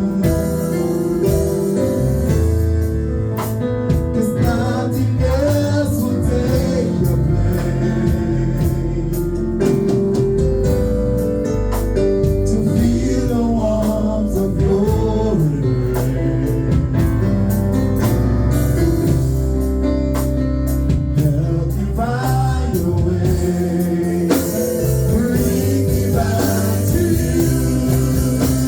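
Gospel worship music: singing with a band, held chords over a steady bass line.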